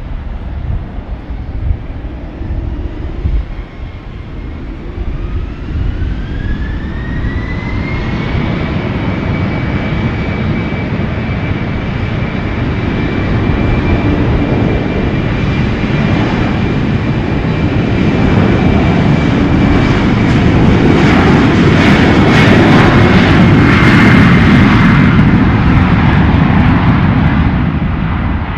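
Jet airliner's engines: a whine rises in pitch over a few seconds, then holds steady while the engine roar grows louder, peaking near the end before easing slightly.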